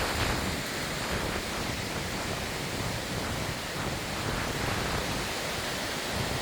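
Heavy rain and gusting wind, a steady rushing hiss.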